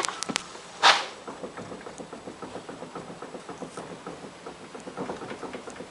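Renault Mégane front wheel rocked by hand, its suspension giving sharp clicks and a louder knock about a second in, then a faint, even run of small knocks: play in the lower control arm ball joint and the tie rod.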